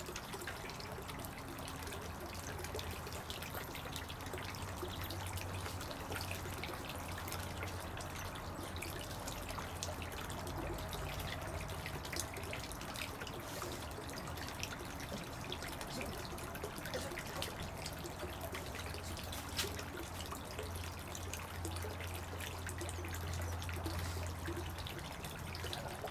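Water trickling steadily, with many small irregular drips and ticks over a low hum.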